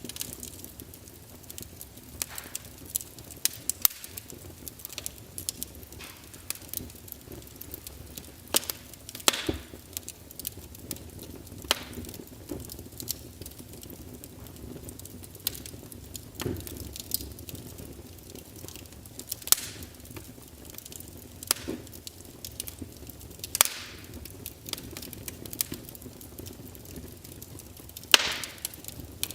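Fire crackling in a fireplace: irregular sharp pops and snaps, a few louder than the rest, over a low steady hush.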